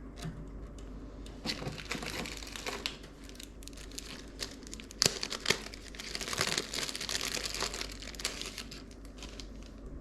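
Plastic crinkling and crackling as it is handled, in irregular bursts, with two sharp clicks about five seconds in.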